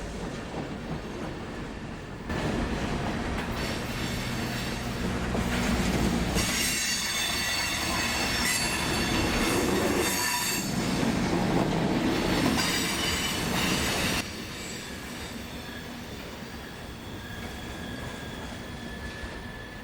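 Freight train rolling with its wheels squealing, likely flanges grinding through a curve: several high steady squeal tones over the low rumble of the train, growing loud about six seconds in and dropping off suddenly about fourteen seconds in.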